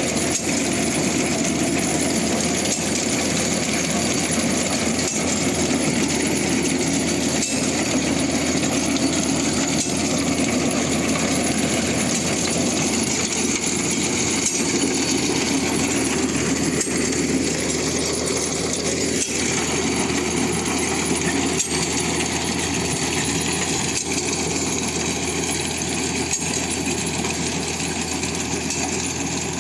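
Zetor Super 50 tractor's diesel engine running steadily, mixed with the metallic clatter of the Tek Z-609 potato digger it pulls. The sound changes character about two-thirds of the way through.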